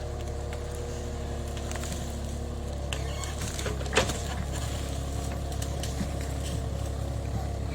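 JCB 30 Plus mini excavator's diesel engine running steadily under light working load, its pitch shifting slightly partway through, with one sharp metallic clank about four seconds in.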